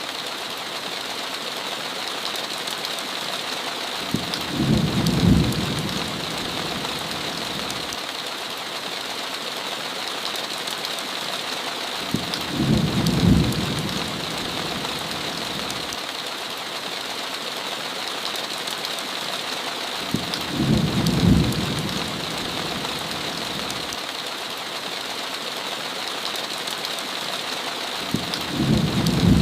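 Heavy rain falling in a steady hiss, with a low rumble of thunder rising and fading over about two seconds, four times at even intervals of about eight seconds.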